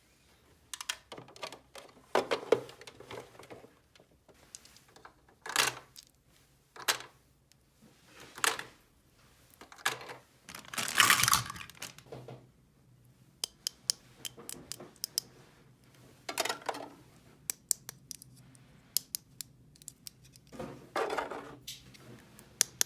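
Small plastic toy pieces handled and set down: scattered sharp clicks and light clatters, with a few longer scrapes, the longest about eleven seconds in.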